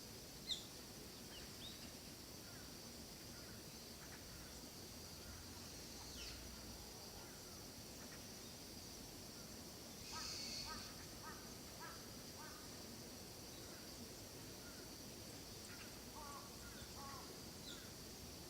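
Quiet forest ambience: scattered bird chirps and short calls over a steady high-pitched hiss. A sharp high chirp just after the start is the loudest sound, and about ten seconds in a louder call is followed by a quick run of short notes.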